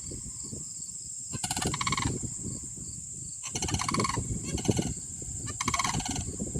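A pair of sandhill cranes calling back and forth, loud rolling calls in about four bursts a second or so apart.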